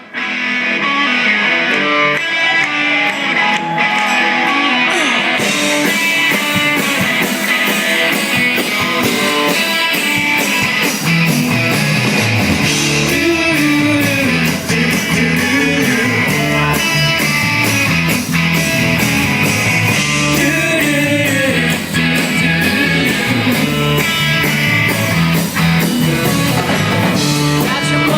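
Live rock band playing a guitar-led song. The sound fills out about five seconds in, and a heavy low end joins about twelve seconds in.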